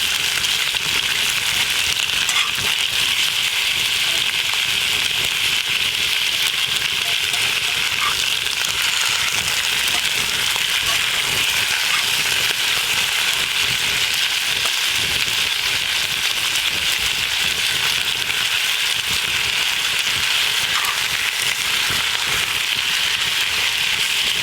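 Lamb sizzling as it sears in a very hot cast iron pot over a campfire, with the fire crackling: a steady, dense hiss with a few small pops.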